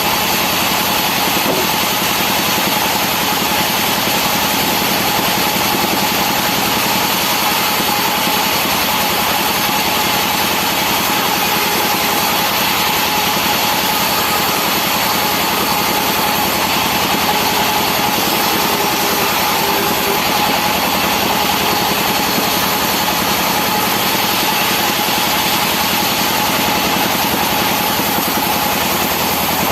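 Engine-driven wood-cutting saw running steadily at a constant speed, with a steady whine over dense engine noise.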